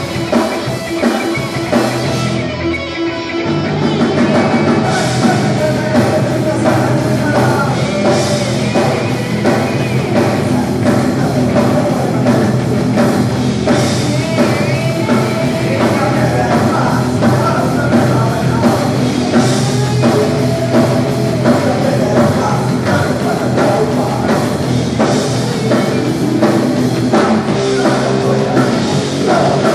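Punk rock band playing live at full volume: drum kit, electric guitar and bass, with the full band coming in harder about four seconds in.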